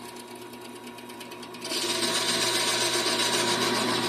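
Vevor 7x14 mini metal lathe running with a steady motor hum; about two seconds in the sound jumps much louder as the cutting tool starts cutting into a piece of aluminum, a dense hissy cutting noise over the hum.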